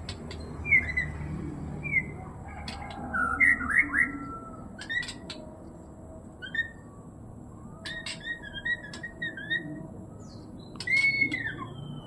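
White-rumped shama (murai batu) singing: short clear whistled notes and slurred, up-and-down phrases in scattered bursts, with a few sharp clicks between them.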